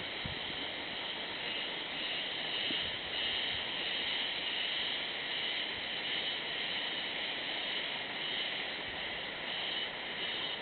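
Cicadas calling in a dense, steady high-pitched chorus from woodland, swelling and easing in loudness every few seconds.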